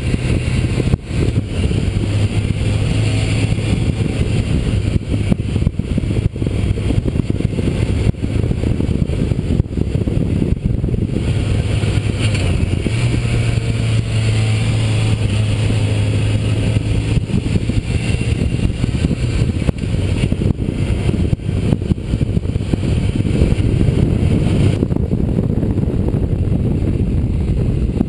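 Motorcycle engine running steadily at road speed with wind rush. The engine note shifts in pitch a few times as the throttle and speed change.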